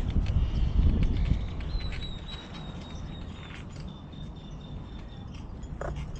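Wind rumbling on the microphone, dropping away after about a second and a half, with a thin high steady whistle heard twice.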